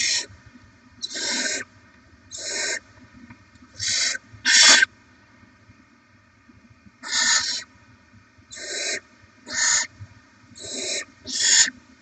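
Barn owl nestlings giving repeated rasping, hissing begging calls of about half a second each, roughly once a second with a short pause about halfway through; the food-begging of hungry chicks.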